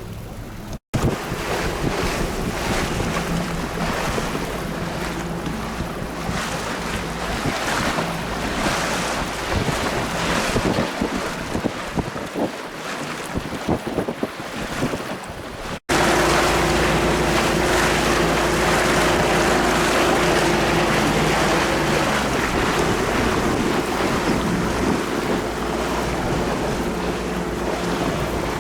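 Wind buffeting the microphone over the rush of waves and water, with a steady low hum underneath. The sound drops out sharply twice, about a second in and about halfway through, at edit cuts.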